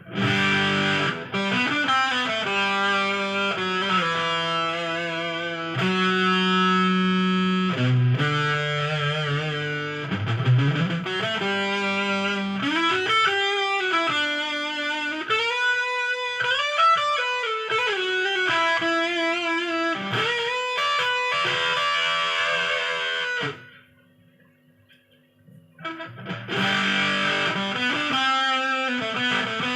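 Electric guitar played through an MXR Sub Machine octave fuzz pedal: distorted held notes and riffs with string bends. The playing stops for about three seconds near the end, then starts again.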